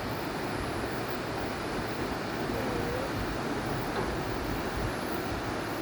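Steady rushing of river water, an even roar that holds at one level.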